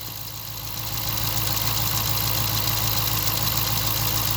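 Dodge 5.7 Hemi V8 idling steadily with a fast, even ticking over its hum, growing a little louder about a second in. The owner takes the tick for loud fuel injectors, not the lifters or cam.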